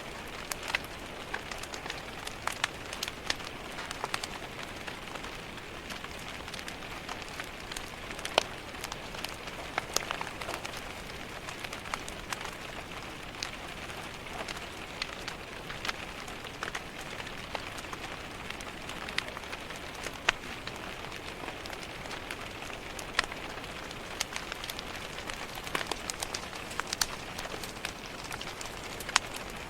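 Steady rain pattering on a window pane, mixed with the crackling of a wood fire in a fireplace: a constant hiss of rain with sharp pops and snaps scattered through it, a few clearly louder than the rest.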